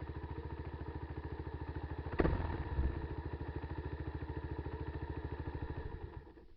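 Kawasaki KLR250's single-cylinder four-stroke engine idling with an even beat. A sharp clack comes about two seconds in, and the engine is briefly louder for under a second. The engine sound cuts off near the end.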